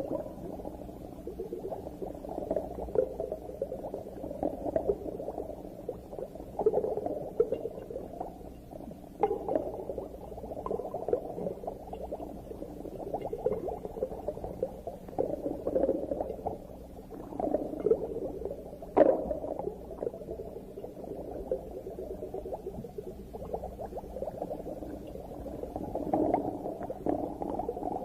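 Muffled underwater ambience: continuous bubbling and crackling, with scattered louder pops and one sharp click about 19 seconds in.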